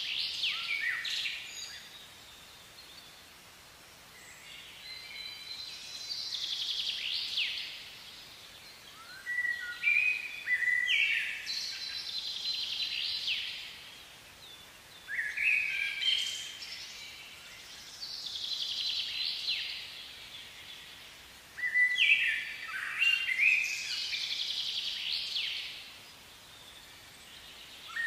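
A songbird singing: phrases of quick whistled notes, many sweeping downward, each lasting one to three seconds and repeated every few seconds, over a faint steady hiss.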